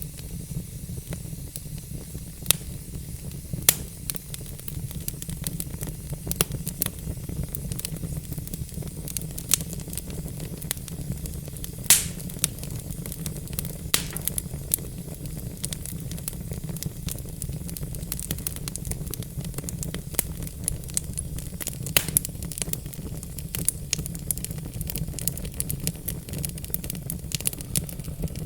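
Wood fire burning in a fireplace, crackling and popping irregularly over a steady low rumble of the flames. The loudest pop comes about twelve seconds in.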